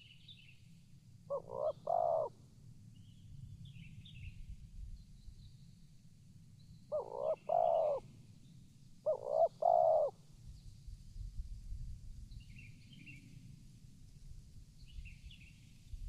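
Spotted dove cooing three times, each phrase a couple of short notes running into a longer, louder coo. Small birds chirp faintly and higher-pitched in between.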